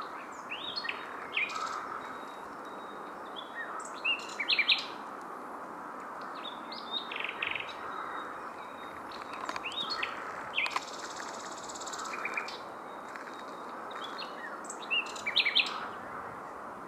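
Common nightingale singing: short separate phrases of sharp notes and whistles every few seconds, one of them a fast run of repeated notes about halfway through, over a steady background hiss.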